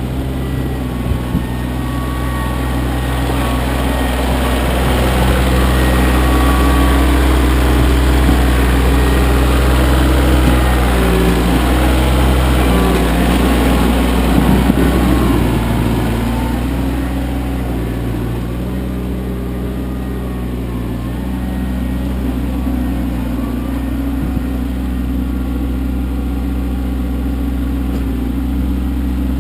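Kioti CK25 compact tractor's three-cylinder diesel engine running steadily, its pitch shifting a little now and then as the load changes, with a brief louder rush about halfway through.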